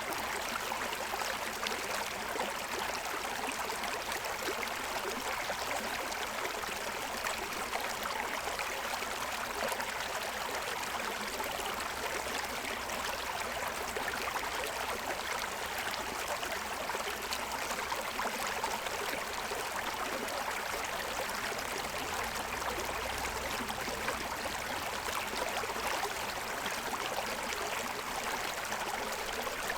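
Forest stream running over a stony bed: a steady, unbroken rush and babble of water.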